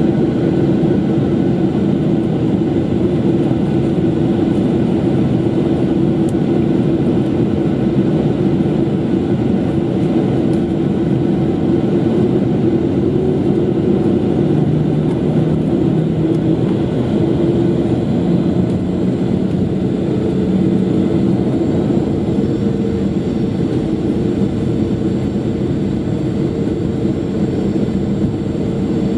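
Steady cabin noise of a Boeing 737-800 with its CFM56 jet engines running, heard from inside the passenger cabin: a dense, even rumble with a droning hum that shifts slightly in pitch partway through.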